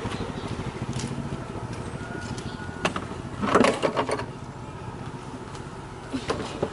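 Old car's engine idling with a steady low pulse just after a louder run dies down. A few sharp knocks and a short burst of clatter come in the middle, with two more knocks near the end.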